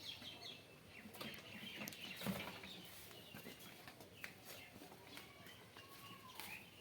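Faint birds chirping, with scattered small clicks and knocks.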